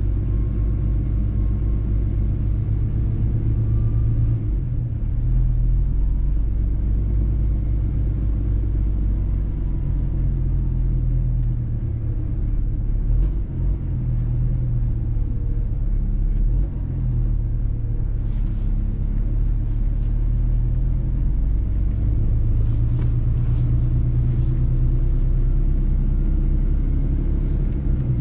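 Mercedes-Benz truck's diesel engine running steadily under way, with low road rumble. The engine note dips briefly a few times, and faint light ticks come in the second half.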